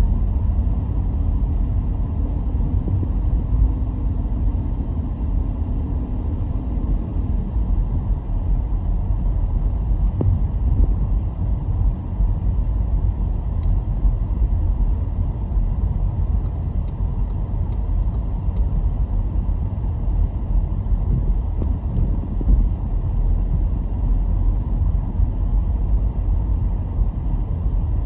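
Car being driven, with a steady low rumble of engine and road noise.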